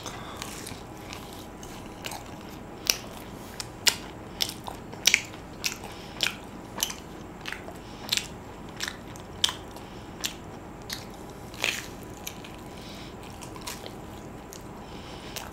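Close-up chewing of a fried chicken croquette with a crunchy coating: sharp crunches about twice a second, dying away near the end.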